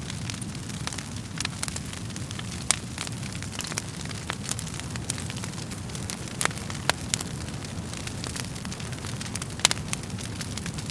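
Wood fire burning in a fireplace: a steady low rumble of flames with irregular sharp crackles and pops from the burning logs, a few louder snaps standing out.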